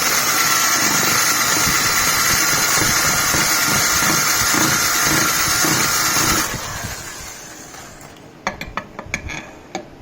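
Dremel rotary tool running at high speed, grinding the metal of a pit bike's swing arm to widen the axle slot. It spins down about six and a half seconds in, and a few light metallic clicks and taps follow near the end.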